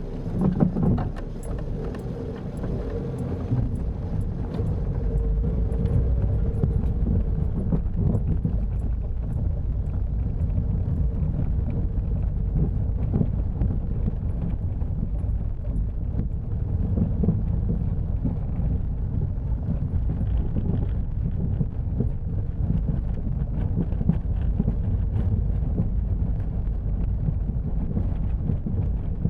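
Car cabin sound while manoeuvring slowly: low engine and road rumble with irregular knocks and clunks from the right front suspension, with a louder thump about a second in. The knocking comes from a worn lower suspension ball joint that has worn out its seat in the control arm.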